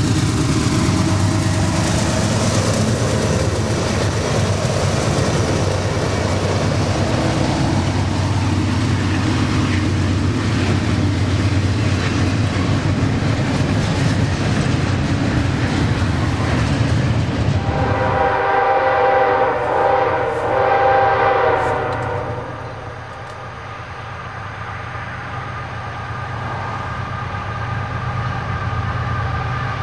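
Freight train rolling past with wheels clattering over the rail joints. About 18 seconds in, the rumble drops away and a diesel locomotive's multi-note air horn sounds for about four seconds, followed by quieter train running.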